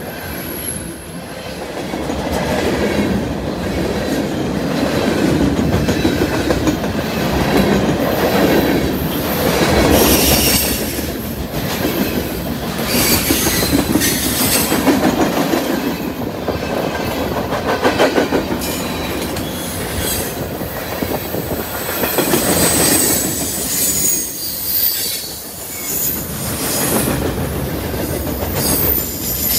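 Freight train's boxcars and tank cars rolling past at speed: a steady rumble of steel wheels on rail with repeated clicks over the rail joints. Thin, high wheel squeal comes and goes.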